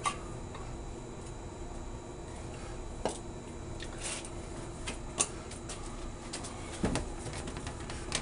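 Light clicks and knocks of plastic drain pipe and fittings being handled and tried together, a few scattered sharp taps over a low steady background hum.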